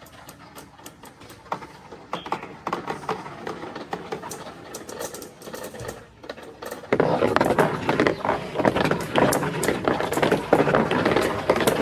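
Marbles rolling and clicking along a plastic marble-run track, at first faintly with scattered clicks. About seven seconds in, a dense, rapid clatter of marbles on plastic starts and gets much louder.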